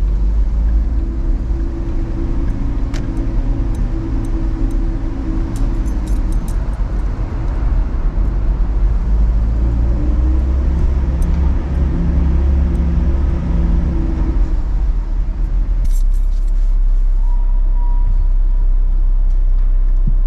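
3.7-litre Cyclone V6 of a Mustang, not boosted, running under way through its turbo manifolds and exhaust, with a steady low drone and road rumble. About four seconds from the end the engine sound drops away and a steady thin tone comes in.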